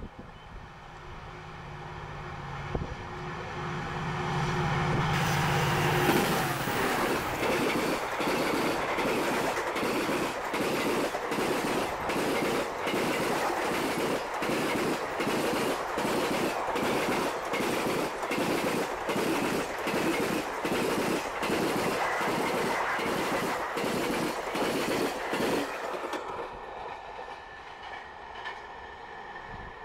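Konark Express passenger train passing at full speed: the locomotive's hum swells as it nears, then the coaches' wheels thump over the rail joints in a steady rhythm of about one and a half beats a second. The sound dies away near the end.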